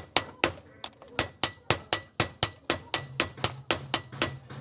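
Steel being forged: rapid, even hammer blows, about four a second, each with a short ring. A low hum comes in about three seconds in.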